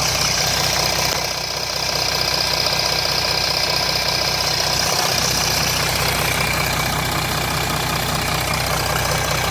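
Jeep Grand Cherokee 3.0 CRD diesel engine (Mercedes OM642 V6) idling steadily with a rattle. The owner takes the rattle for the sound of a timing chain or a turbo starved of oil, after the oil-pressure light came on.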